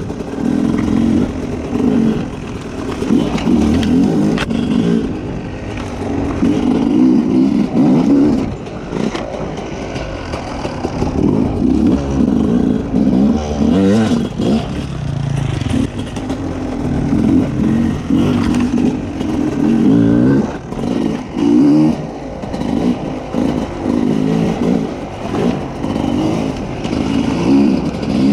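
Sherco 300 two-stroke enduro motorcycle being ridden off-road, its engine revving up and backing off every second or two under changing throttle, with clattering from the bike over rough ground.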